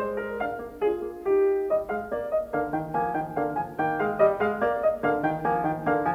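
Background piano music: a melody of quick, separate notes over lower held notes.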